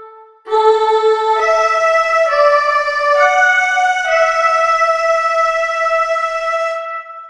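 Electronic keyboard melody from a techno-pop cover. After a brief pause it plays sustained, bright tones that climb step by step, about one note a second, then holds one long note that fades out near the end.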